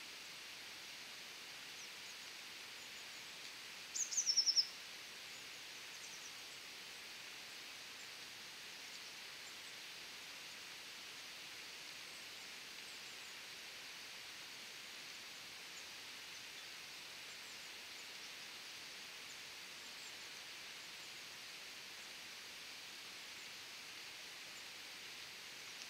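Steady faint outdoor hiss, broken about four seconds in by a short bird call: a quick run of five or six high notes falling in pitch.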